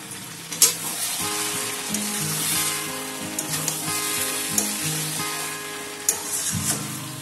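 Boiled mutton and potatoes sizzling in a metal kadai as they are stirred and fried down with masala (the kashano stage), the metal spatula scraping and knocking on the pan now and then, sharpest about half a second in.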